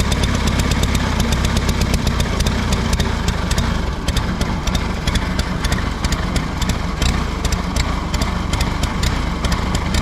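Allis-Chalmers G tractor's small four-cylinder gasoline engine running steadily, its firing easing off slightly about four seconds in. The owner says it is acting like it runs rich, a fault he later traces to a sticking carburetor.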